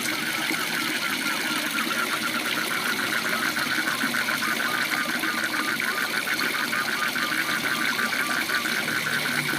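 Waterfall rushing steadily, with a frog's rapid pulsed call, about eight pulses a second, starting about a second and a half in.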